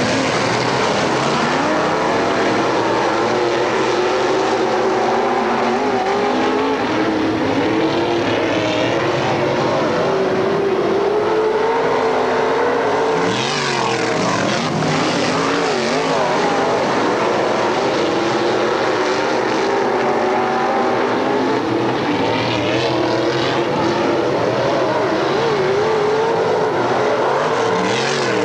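Several dirt-track race car engines running hard at racing speed, their pitches rising and falling as they work around the track, with cars sweeping past about halfway through and again later on.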